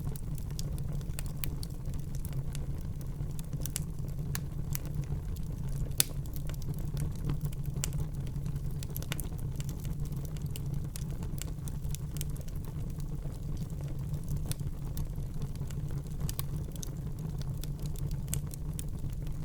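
Wood fire burning in a fireplace, crackling with irregular small pops over a steady low rumble. One louder pop comes about six seconds in.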